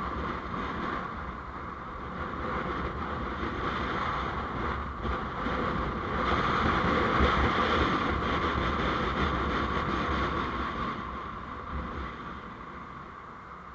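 Road and wind noise from a moving vehicle, a steady rushing with low rumble that swells about halfway through and eases off near the end.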